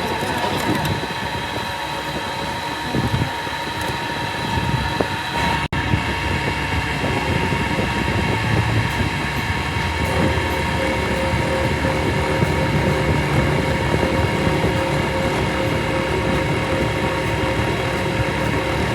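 Workshop machinery running steadily, a constant mechanical noise with a steady whine. There is a brief break about six seconds in, and a lower tone joins partway through.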